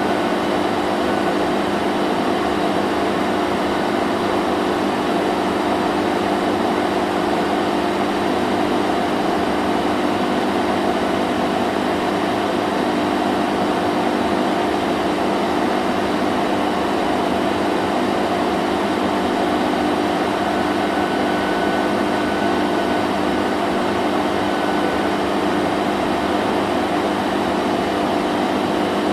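Vacuum cleaner running continuously: a steady motor hum under an even rush of noise, without change.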